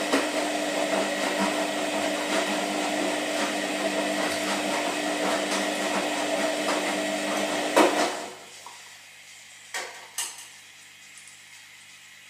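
Washing machine running with a steady hum and fast rattling clatter, which stops about eight seconds in with a sharp click; two more clicks follow a couple of seconds later.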